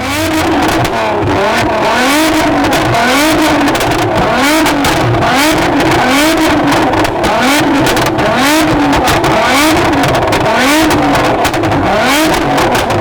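A car engine revved over and over, roughly once a second, each rev climbing and dropping back, loud, with sharp crackles in between.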